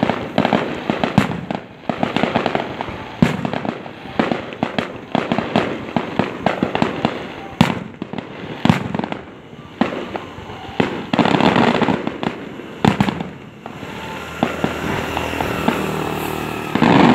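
Aerial fireworks going off: a long run of sharp bangs with crackling, growing denser about two-thirds of the way through and again near the end.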